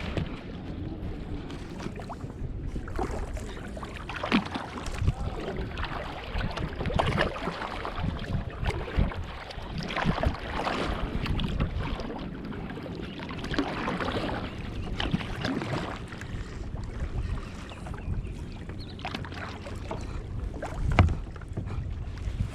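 Kayak paddling: the paddle blades dip and splash in the water in irregular strokes, over a low rumble of wind on the microphone. There is one louder knock near the end.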